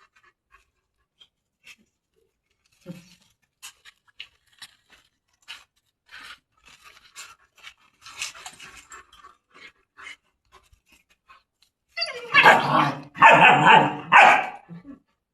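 German shepherd barking, three loud barks close together near the end, after several seconds of scattered faint clicks and rustles.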